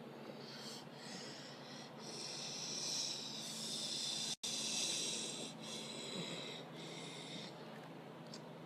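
Ryko Soft Gloss automatic car wash at work: a steady rushing, hissing noise of spray and washing that swells about two and a half seconds in and eases off again after about five seconds, broken by a split-second dropout midway.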